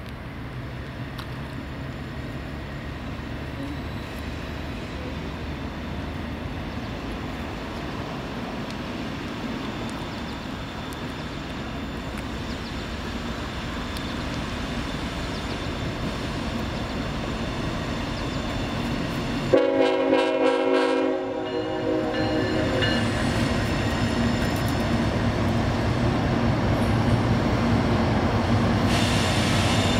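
Freight train's diesel locomotives approaching and growing steadily louder. About two-thirds of the way in, the locomotive horn sounds one loud blast of about two seconds, then the lead units rumble past close by.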